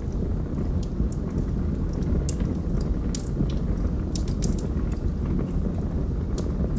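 Wood logs burning in a fireplace: a steady low rumble of the flames with scattered sharp crackles and pops, thickest around the middle.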